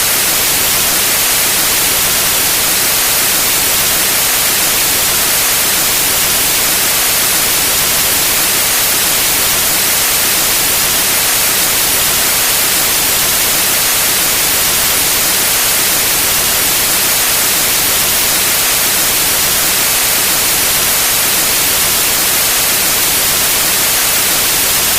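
Steady white noise: an even hiss that is brightest in the high frequencies, unchanging in level.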